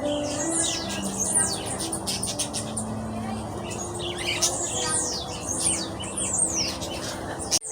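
Many small birds chirping and tweeting together: a busy chorus of quick, high chirps, most sliding downward in pitch.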